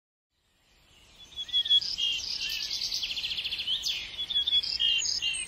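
Birds singing: a run of high chirps, short whistles and rapid trills, fading in after a moment of silence and cutting off suddenly near the end.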